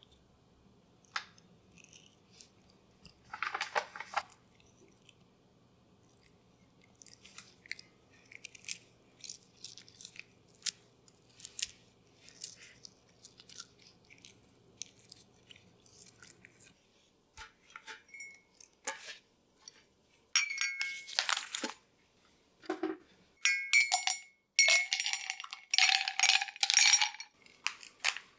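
Scattered small clicks, taps and handling noises of objects being moved, with a faint low hum that stops about 17 seconds in; louder rustling or scraping bursts come in the last eight seconds.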